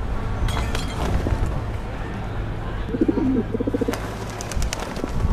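A bird cooing briefly about three seconds in, over a steady low hum, with a few sharp clicks.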